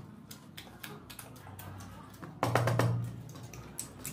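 Close-up eating sounds: irregular wet clicks and smacks of chewing, with a louder, lower sound with a hum about two and a half seconds in.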